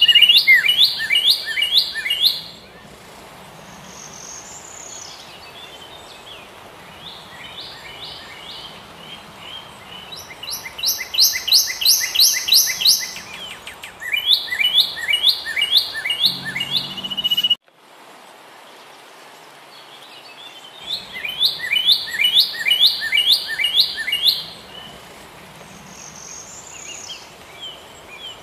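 Birdsong: a songbird repeating phrases of fast, sharp chirps, each phrase two to three seconds long with short gaps between, over a faint steady hiss. The sound cuts off abruptly about two thirds of the way through, then the song resumes.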